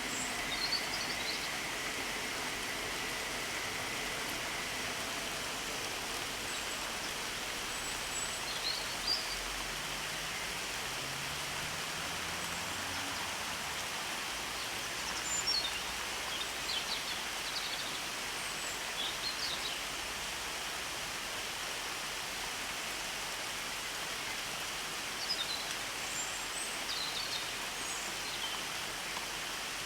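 Steady rain falling, an even hiss, with short high chirps of small birds now and then.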